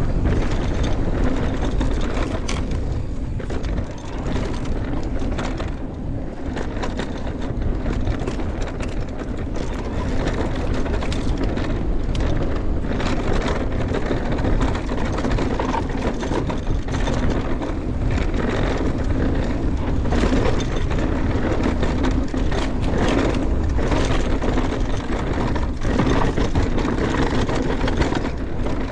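Mountain bike descending a dirt trail: steady wind rush on the microphone, with the tyres rolling over dirt and rocks and the bike clattering over bumps.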